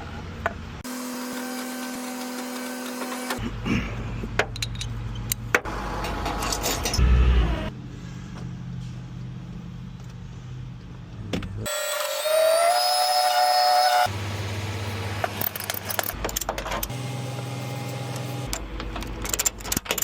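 Motor vehicle sounds in a run of short cut-together clips: engine hum, clicks and knocks, and a rising whine about twelve seconds in.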